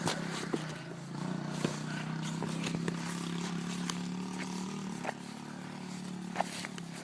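Dirt bike engine idling steadily, its pitch dipping slightly about five seconds in, with scattered light clicks and scrapes of handling close by.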